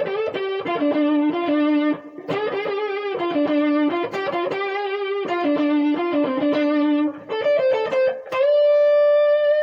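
Electric guitar playing a blues lick: runs of quick picked notes in short phrases, then a note bent upward and held near the end.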